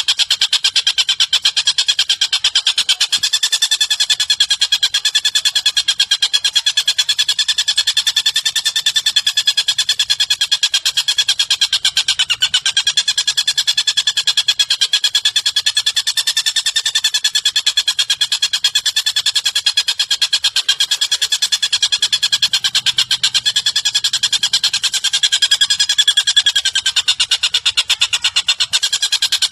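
Recorded songbird giving one unbroken, very fast high-pitched trill, its pitch wavering gently up and down.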